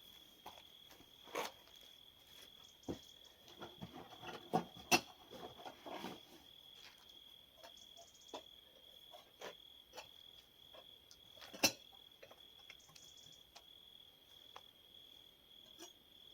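A steady, high-pitched insect trill runs throughout. Over it come scattered sharp clicks and knocks of handling or movement, the loudest about five seconds in and again near twelve seconds.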